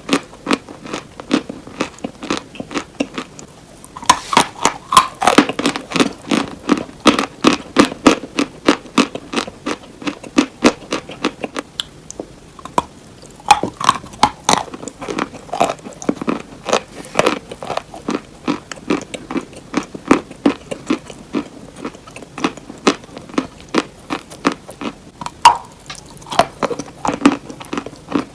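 Close-up crunching and chewing of hard, crunchy cheese: rapid crisp crunches several times a second, with two short pauses between bites.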